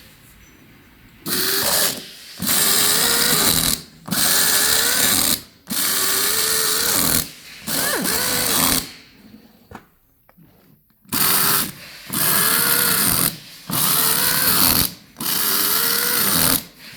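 Power tool run in repeated bursts of about a second and a half, about nine in all, with a short gap between each and a longer pause about two-thirds through. Its pitch wavers within each burst, as a motor does under load.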